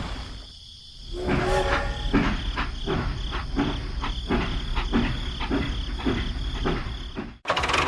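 A small motorised machine running with a steady hum and a regular clicking pulse about three times a second, which stops abruptly near the end.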